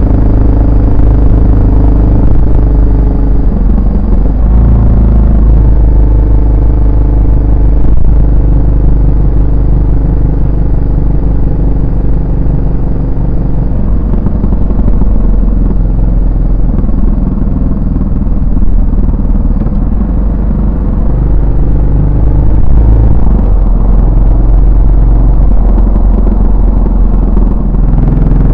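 Yamaha SR400's single-cylinder four-stroke engine and exhaust under way, its note rising and falling several times as the revs change.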